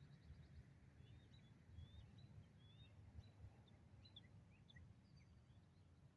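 Near silence with faint small-bird chirps: short high notes, some rising and some falling, scattered irregularly throughout, over a low background rumble.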